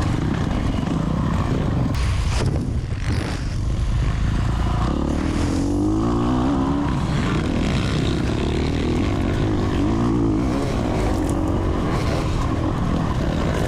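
Off-road dirt bike engine racing hard, its pitch rising and falling as the throttle opens and closes, over a constant rush of wind and tyre noise.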